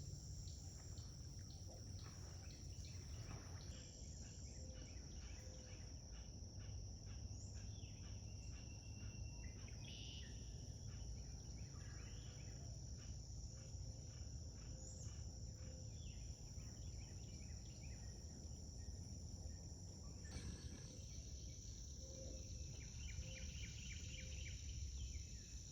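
Faint outdoor morning sound: a steady high-pitched chorus of insects, with scattered bird chirps and a fast run of small ticks over a low rumble.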